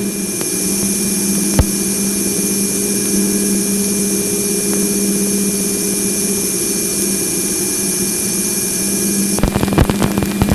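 Sonified spacecraft radio or plasma-wave recording: a steady electronic hiss over a low hum, with a high hiss layer that cuts off suddenly near the end, giving way to dense crackling.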